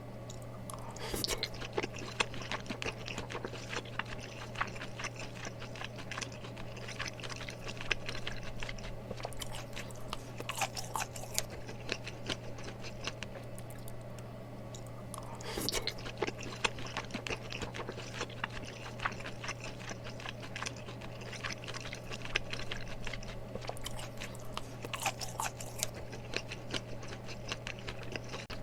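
A person chewing mala tteokbokki close to the microphone: a run of wet, sticky mouth clicks and crackles that eases off for a few seconds midway, over a steady low hum.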